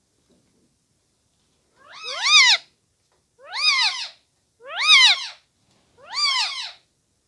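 Four meows, each under a second long and rising then falling in pitch, about a second apart.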